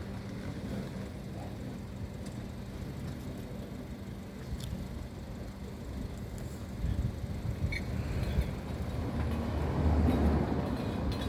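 Low rumble of a motor vehicle, growing louder over the last few seconds.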